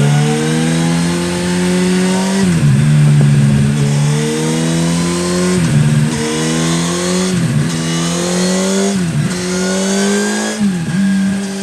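Yamaha MT-07's crossplane parallel-twin with an Akrapovic exhaust accelerating hard through the gears: the revs climb and drop sharply at each of five upshifts, then hold steady near the end. Wind noise runs underneath.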